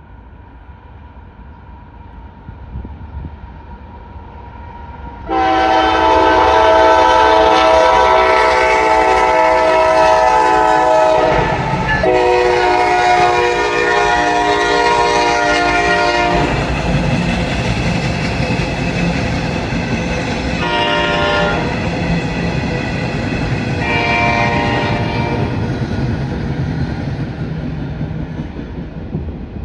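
A train's multi-tone air horn blows two long blasts, then a short one and another brief one, in the pattern of a grade-crossing signal. Under and after the horn comes the rising rumble of the passing locomotive and the clatter of wheels on the rails.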